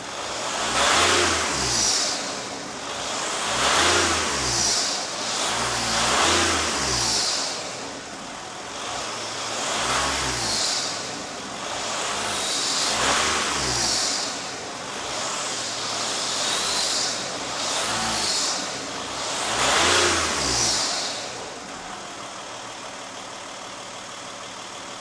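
Audi A4 2.5 TDI V6 diesel engine revved in repeated short blips every second or two, the turbocharger whistling as it spools with each rev, then settling back to idle near the end.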